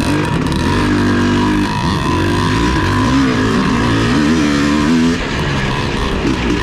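Vintage off-road racing motorcycle engine under throttle, its pitch rising and falling again and again as it revs up and eases off.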